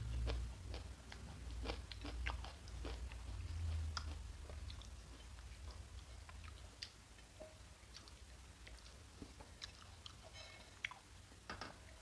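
A person chewing soft food quietly with the mouth close to a clip-on microphone, with many small scattered mouth clicks and smacks.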